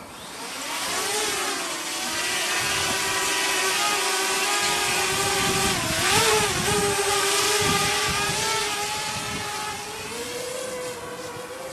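DJI Mavic Mini drone's propellers whining steadily as it flies. The whine swells in about half a second in, wavers briefly in pitch about halfway through, and eases a little near the end.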